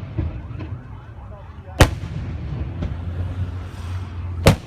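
Aerial fireworks going off: two loud shell bursts, about two and a half seconds apart, with fainter pops and cracks between them over a steady low rumble.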